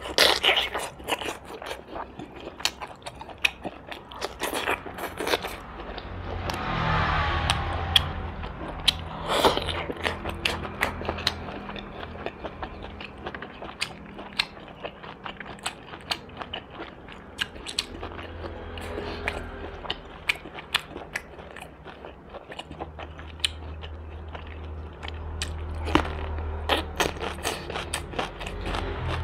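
Close-up chewing and biting on roast duck: dense, irregular crunching and smacking clicks, with a few louder bites scattered through.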